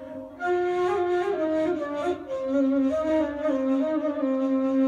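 Dilsiz kaval, an end-blown rim-blown shepherd's flute, playing an improvised melody. It opens with a brief break for breath, then plays a line of notes that climbs about a second in and settles back to long held lower notes.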